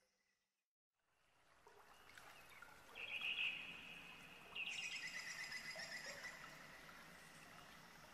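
Faint birdsong over quiet background hiss: a short clear call about three seconds in, then a rapid trill that falls slightly in pitch and fades over the next second or two. The first second and a half is dead silence.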